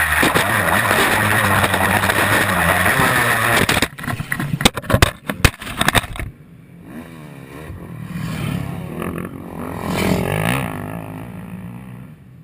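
Honda CR250 two-stroke dirt bike engine running loud with wind noise on a handlebar-mounted camera. The noise cuts off suddenly, followed by a rapid clatter of sharp knocks, typical of the mount breaking and the camera tumbling. After that, a quieter motorcycle engine rises and falls as it passes.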